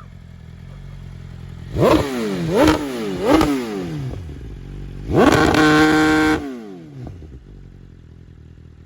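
2021 BMW S1000RR's inline-four engine through a full titanium Akrapovič Evolution exhaust, idling, then blipped three times in quick succession and held at high revs for about a second before dropping back to idle.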